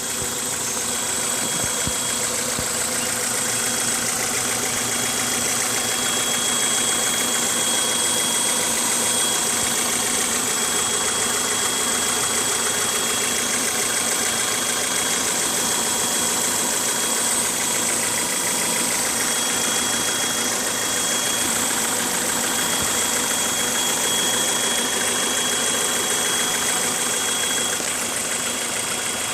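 1998 Honda CR-V's four-cylinder engine idling steadily with a constant high-pitched whine over the running.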